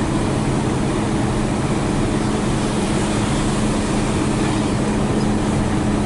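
Hino 500 FM320TI truck's six-cylinder diesel engine running steadily while driving, heard from inside the cab as a constant low drone mixed with road and tyre noise.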